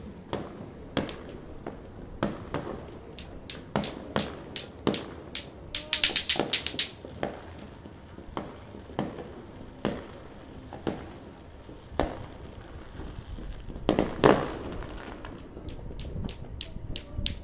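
Scattered New Year fireworks going off, single bangs about every second, with a burst of rapid crackling about six seconds in and a louder burst near fourteen seconds. A cricket chirps steadily throughout.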